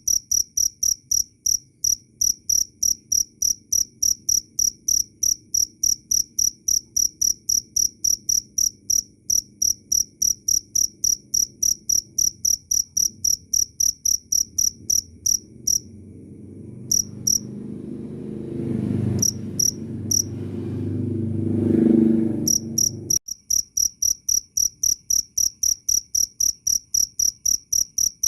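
Cricket chirping in a steady, even train of short high-pitched chirps, about four a second. Partway through the chirping breaks off, with only a few scattered chirps, while a low noise swells, peaks and then cuts off abruptly, after which the regular chirping resumes.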